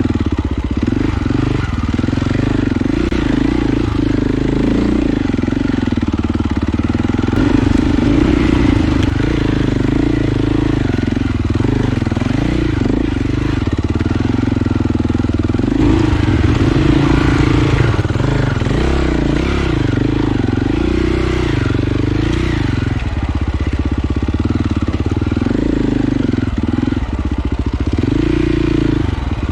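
Dirt bike engine running under constant throttle changes, its pitch rising and falling as the rider works it along the trail.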